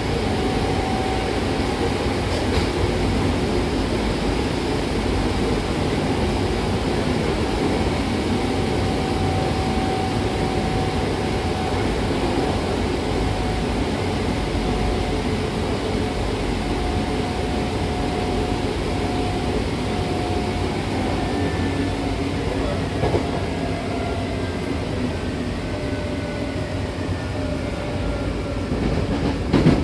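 Hankyu commuter train heard from inside the passenger car while running: a steady rumble of wheels on rail with a motor whine. In the second half the whine falls in pitch as the train slows for a station, and a few louder thumps come at the very end.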